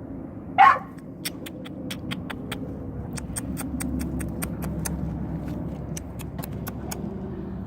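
A dog gives one short yelp that falls in pitch, then a run of sharp clicks follows, a few a second, over a steady low hum.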